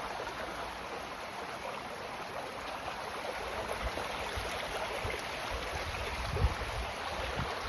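Steady rush of flowing water, with a few low bumps of wind on the microphone in the second half.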